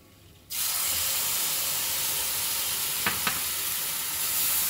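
Tomato purée sizzling in hot butter and spices in a pan, the hiss starting suddenly about half a second in and staying steady. Two light knocks of a wooden spatula against the pan a little after three seconds.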